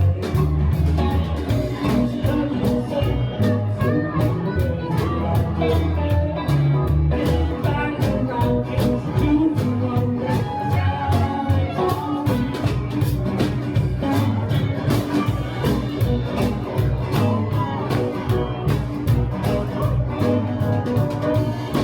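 Blues band playing: guitar over a moving bass line and a steady drum beat.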